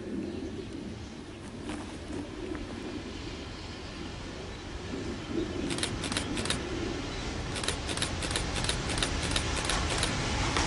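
Freight train approaching: a Siemens Vectron electric locomotive hauling loaded grain hopper wagons, its rumble growing steadily louder. From about halfway through, sharp high ticks come a few times a second.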